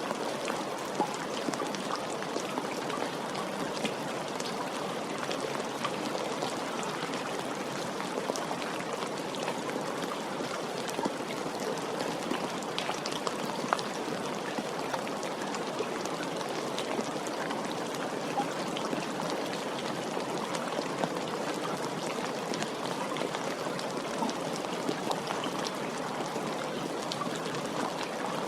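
Steady rain: an even hiss of falling rain with many small, sharp drop ticks scattered through it, unchanging throughout.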